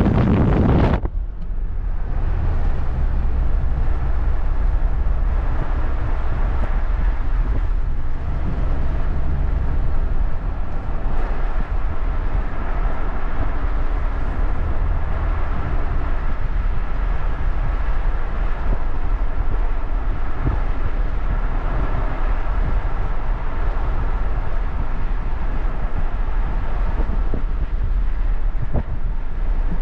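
A vehicle running steadily, with a continuous low rumble and a faint hum above it.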